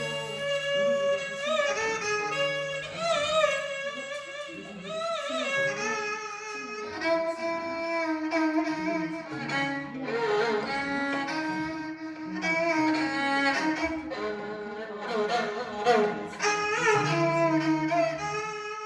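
Music: a bowed string instrument playing a slow melody with vibrato over a held low note.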